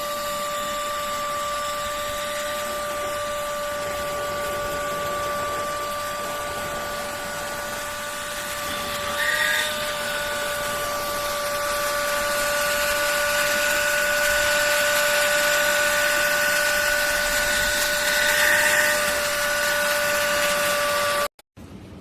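Cordless handheld vacuum cleaner running: a steady high motor whine over rushing air, with a brief change in pitch about nine seconds in, stopping abruptly near the end.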